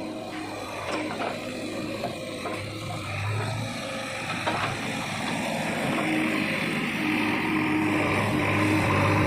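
Diesel engine of a JCB 3DX Xtra backhoe loader running steadily at work, getting a little louder toward the end, with a couple of short knocks.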